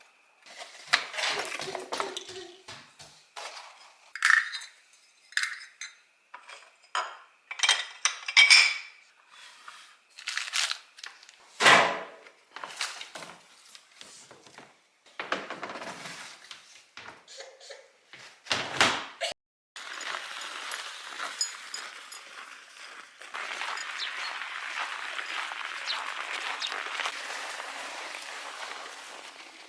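Dishes and cutlery clinking and clattering, a string of sharp knocks and clinks of varying loudness. A little after two thirds of the way in they give way to a steady rushing noise.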